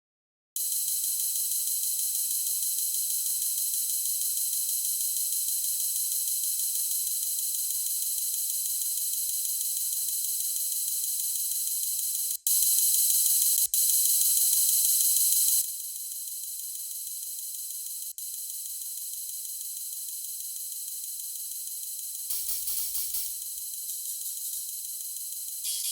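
Steady high-pitched hiss with nothing in the low end, like a filtered noise sample. It comes in about half a second in, is louder for about three seconds in the middle, then drops back. Near the end there is a brief, fuller burst that reaches lower.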